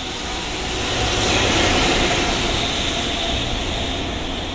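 EF65 electric locomotive passing at close range, hauling a rake of unpowered Seibu 001 series Laview cars: a steady rumble of wheels on rail that swells as the locomotive goes by about one and a half seconds in, then eases as the cars roll past.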